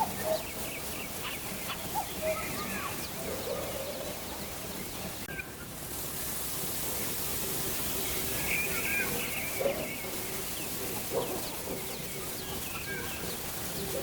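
Wild birds chirping and calling in short, scattered notes over a steady outdoor hiss. The background changes about five and a half seconds in and turns hissier.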